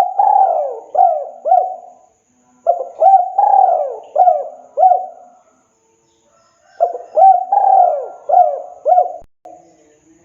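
Spotted dove (tekukur) cooing its song: three phrases of several short hooting coos each, with a pause of about a second between phrases.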